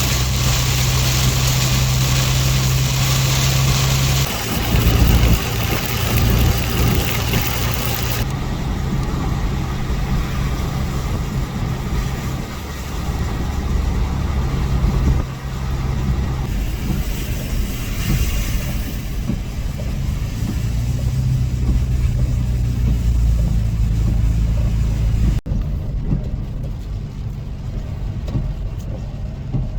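Car engine running with a steady low hum under a rushing wash of rain and wet-road noise. The rushing is strongest for the first several seconds, and the sound changes abruptly to a quieter mix near the end.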